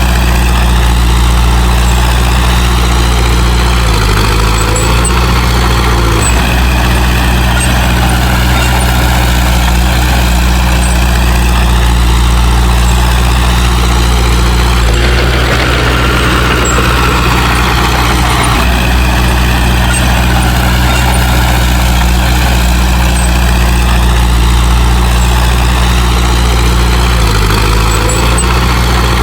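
Heavy diesel earthmoving machinery running steadily, with a deep, constant engine note. There is a stretch of harsher, higher noise for a few seconds past the middle.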